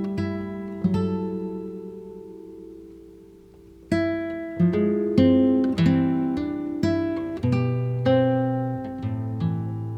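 Background music of plucked acoustic guitar: notes and chords struck and left to ring. One chord fades out slowly over the first few seconds, then a new phrase of single notes begins about four seconds in, at roughly two notes a second.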